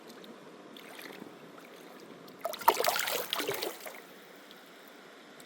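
Water splashing for about a second and a half, a little past two seconds in, over the steady rush of a river.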